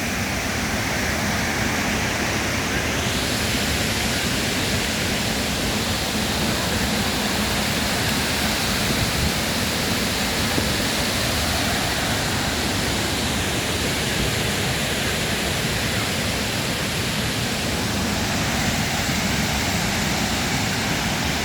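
Waterfall rushing, a steady loud roar of falling water with no pauses.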